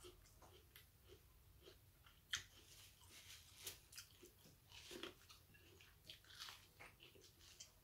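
Faint sounds of a person biting and chewing corn on the cob: a run of small, sharp clicks and crunches of kernels, with one louder click about two and a half seconds in.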